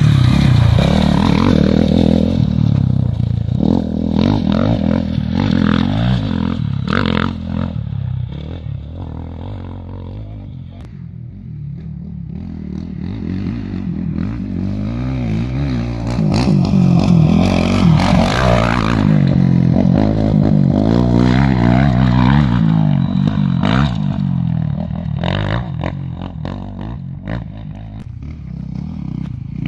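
A vehicle engine running, its pitch rising and falling as it speeds up and slows down, quieter for a few seconds near the middle.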